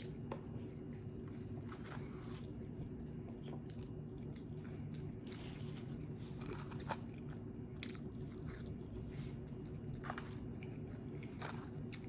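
Close-up chewing and biting of McDonald's fast food, with faint crunches every second or so. A steady low hum runs underneath.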